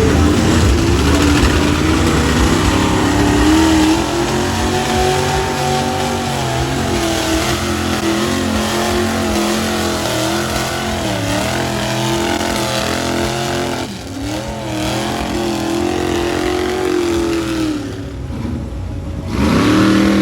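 Off-road truck engine running hard and revving, its pitch rising and dipping several times, with a brief surge near the end.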